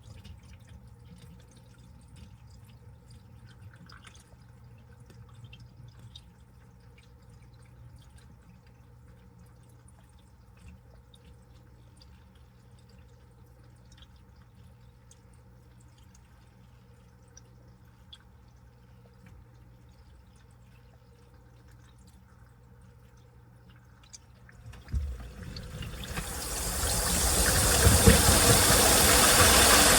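Washing machine sitting between stages: a low steady hum with scattered water drips inside the drum. About 25 seconds in there is a thump, then a loud rushing noise swells over about two seconds and holds steady as the machine starts its next stage.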